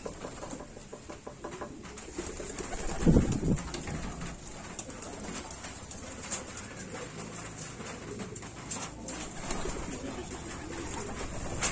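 Racing pigeons cooing, one loud close coo about three seconds in and softer coos after, over scattered light clicks and taps.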